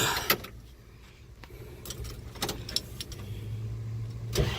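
Keys jangling and several sharp clicks as a pickup truck is readied for a start, then a low steady hum for about a second near the end.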